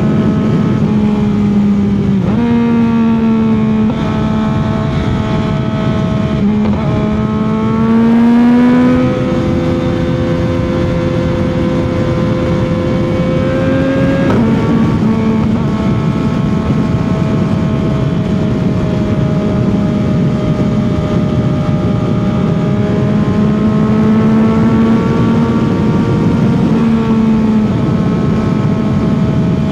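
CFMOTO 675 motorcycle's inline three-cylinder engine running at highway speed, its note shifting up and down in steps and glides several times as the throttle and gears change, with a rising pull around eight seconds in. Steady wind rush runs under the engine.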